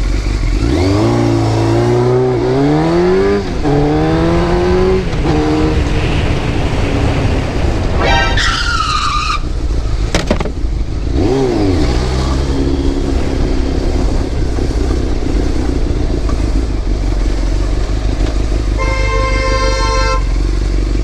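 Motorcycle engine pulling up through the gears, its pitch rising in steps, over steady wind noise. About eight seconds in comes a high squeal falling in pitch, then a sharp knock and a quick engine blip. Near the end a car horn sounds steadily for about a second and a half.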